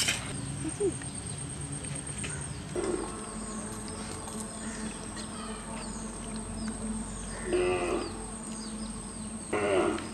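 Small birds chirping repeatedly in the background, under a steady high-pitched whine. Three brief, louder voice-like sounds come about three, seven and a half, and nine and a half seconds in.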